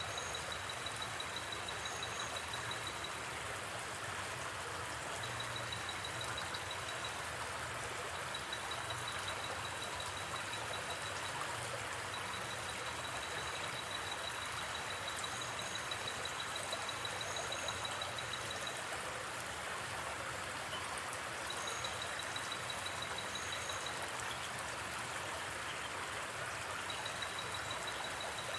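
Steady rushing of a gently flowing river. Over it, a high rapid insect trill starts and stops in runs of a few seconds, with a few short paired high chirps.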